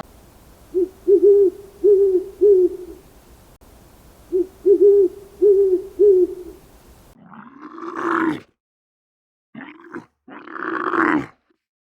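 Animal calls: two runs of four short, low hoots, then, from about seven seconds in, three louder and rougher calls of a different kind.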